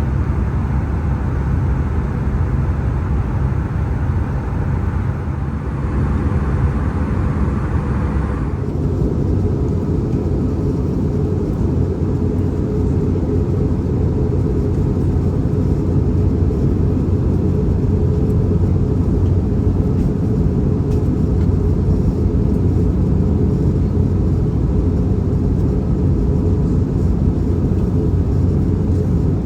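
Steady engine and airflow noise of an Airbus A319 heard from inside the passenger cabin, a deep, even roar. A hissing layer above it drops away abruptly about eight seconds in.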